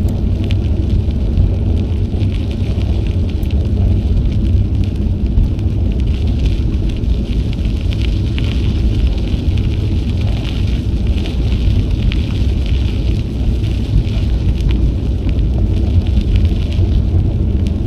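Wind rumbling steadily on an action camera's microphone while riding a bicycle, with a fine crackle of the tyres rolling over the trail surface.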